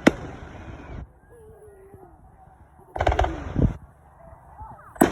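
Fireworks going off: a sharp bang at the start trailing into crackle, a cluster of quick bangs and pops about three seconds in, and another loud bang near the end.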